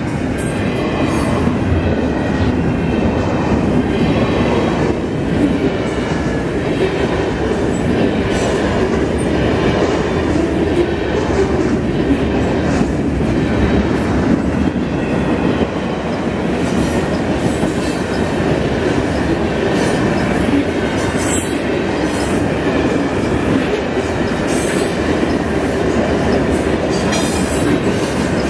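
Freight train cars rolling steadily past at track speed: a continuous rumble of steel wheels on rail, with scattered clicks and clanks from the wheels and couplers.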